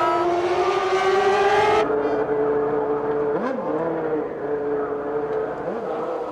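1995 Formula One cars' 3-litre engines at high revs. One car is loud and close, its pitch climbing steadily, and it cuts off about two seconds in. Other cars run on after it, with two brief dips and rises in pitch.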